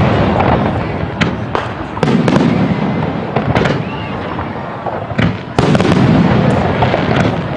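Fireworks display: aerial shells bursting one after another, each sharp bang trailing into a rumbling, crackling echo, with the loudest bursts coming in the second half.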